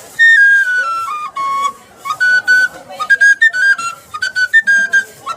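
Flute playing a solo melody: a stepwise falling run of held notes, then after a short break a string of quick, short, detached notes higher up.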